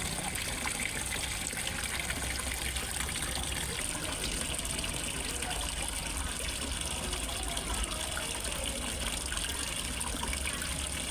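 Water from a small pond waterfall splashing and trickling steadily into a fish pond.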